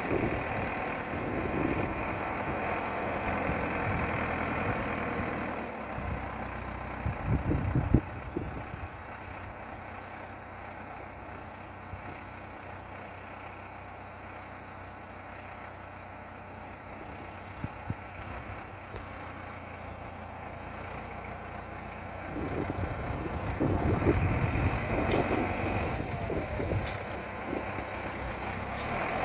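Valmet 705 tractor's diesel engine working hard as the tractor tries to pull a loaded forest trailer on ice, where it is stuck without chains. It is loud for the first few seconds, then a clatter of sharp knocks comes about eight seconds in. A long quieter, steady stretch follows, and the engine rises again with changing pitch a few seconds before the end.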